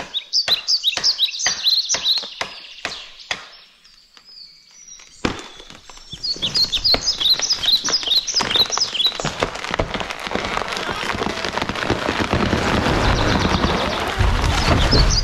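Evenly spaced strikes on wood, about three a second, for the first few seconds; then a sudden crack about five seconds in, swelling into a long crash of snapping branches as a tall conifer falls, ending in a heavy low thud as it hits the ground near the end. Birds chirp over the strikes and again in the middle.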